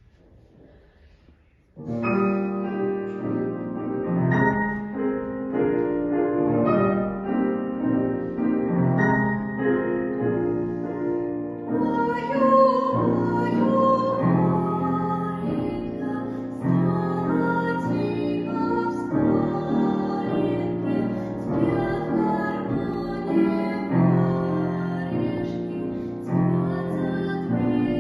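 Piano comes in about two seconds in, playing a gentle song accompaniment, and a female voice sings over it.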